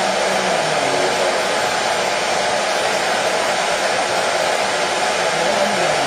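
Hair dryer blowing with a steady, unbroken whoosh.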